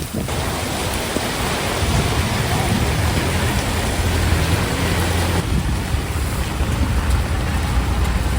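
Heavy rain pouring steadily in a thunderstorm, with a deep low rumble through the middle that eases a little about five seconds in.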